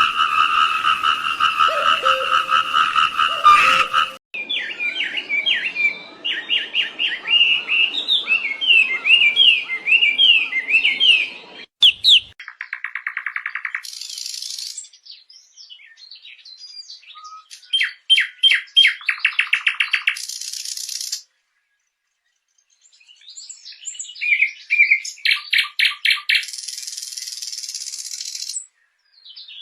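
Songbird calls from several different recordings spliced one after another: quick rising and falling chirps, then bursts of rapid trills broken by short silences. It opens with about four seconds of a steady pulsed trill that cuts off abruptly.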